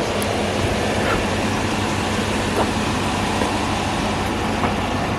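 Vehicle engine running steadily with a low hum, under a constant haze of outdoor noise, with a few faint ticks.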